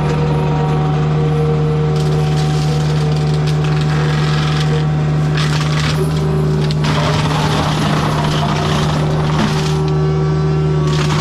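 Mini excavator's diesel engine running steadily under load while its hydraulic forestry mulcher head grinds into wood, with rough grinding and cracking rising over the engine drone about two seconds in and again near the end.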